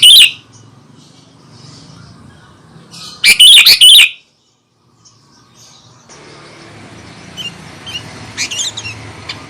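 Sooty-headed bulbul (kutilang) calling in loud, short bursts of bright notes: one at the very start and a longer run of several notes about three seconds in. The sound drops out completely for under a second after that, then softer calls come in toward the end.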